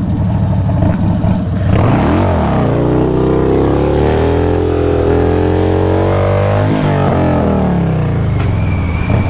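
2005 Harley-Davidson Dyna Low Rider's V-twin engine revving hard about two seconds in, held at high revs with small rises and falls for several seconds, then easing back down near the end. This is hard acceleration for a wheelie attempt.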